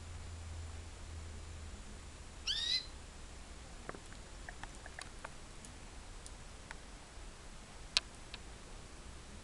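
A canary gives one short rising chirp about two and a half seconds in, followed by scattered faint clicks and a single sharper click near the end.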